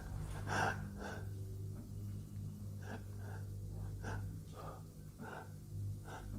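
A person breathing heavily with short gasps, a breath every half second to a second, over a steady low hum.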